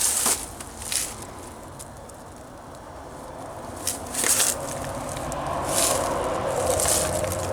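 Slow footsteps crunching on dry ground, a handful of separate steps about a second or more apart.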